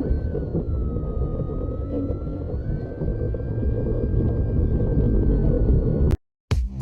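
Electric motor of a radio-control FMS Cessna 182 model plane whining at a steady pitch, which sags slightly about a second in, rises again, then eases down, over heavy wind and vibration rumble on the onboard camera. The sound cuts off abruptly near the end.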